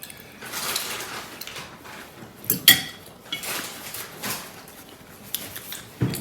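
Cutlery scraping and clinking against dishes while eating, with a sharp ringing clink a little under three seconds in.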